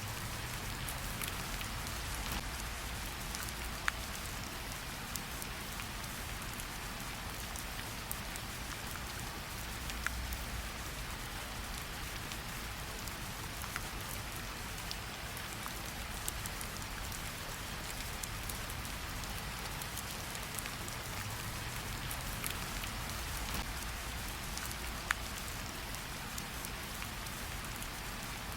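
Steady gentle rain falling on tree leaves, an even patter with individual drops dripping and pattering, a few louder single drops standing out now and then.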